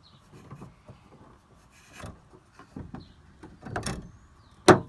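Handling of the small parts of a minivan sliding door's lock mechanism: scattered light clicks and rattles, then one sharp, loud click near the end as a small piece snaps into its clip.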